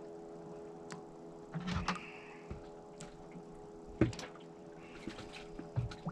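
Scattered knocks and clicks of fishing tackle being handled in a boat, over a steady low hum; the loudest knock comes about four seconds in.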